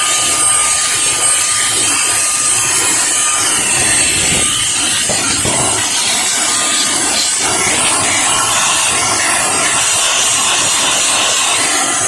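drepre K7 Pro cordless stick vacuum running steadily: a rush of air with a high, steady whine from its motor.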